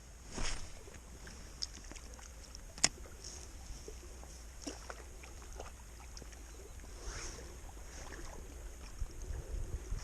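Wind rumbling on the microphone with water lapping and swishing against a kayak hull, two soft swells of water noise, and a sharp click about three seconds in.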